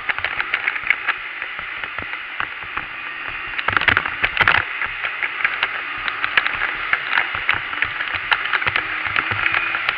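Dirt bike engine running under a loud, steady rushing noise with frequent crackles, louder for a moment about four seconds in.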